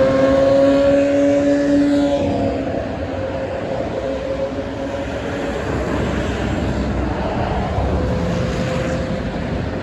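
Heavy highway traffic passing, trucks among it. At first a loud, steady pitched tone from a passing vehicle holds, then drops in pitch about two seconds in as it goes by, leaving a steady rush of tyre and engine noise.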